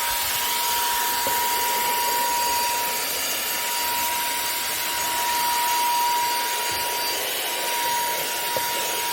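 TEMOLA cordless handheld vacuum with a brushless motor running steadily: a constant high whine over the rush of air.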